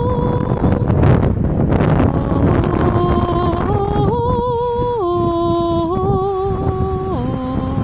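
A voice humming or singing slow, wordless notes, each held for a second or more and stepping up and down in pitch, over a steady rush of wind and sea surf.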